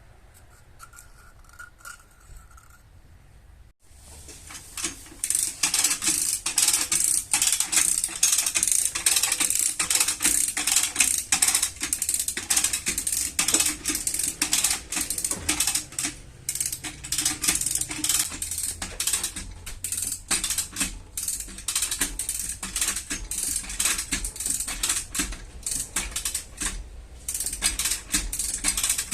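Rapid, continuous metallic clicking and tapping from auto-body repair tools working on the car's metal. It starts suddenly about four seconds in, after a quiet stretch.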